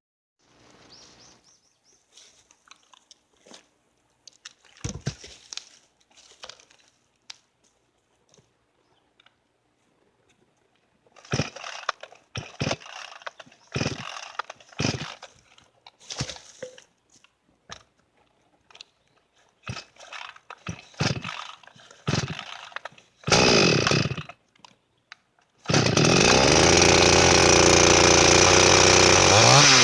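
Chinese-made two-stroke chainsaw being pull-started: a run of short rasping pulls on the starter cord and a brief sputter, then about four seconds before the end the engine catches and runs steadily, its pitch rising and falling near the end.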